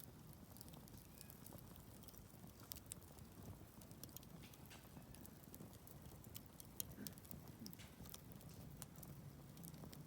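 Wood campfire crackling faintly, with scattered small sharp pops and snaps over a low, steady hiss.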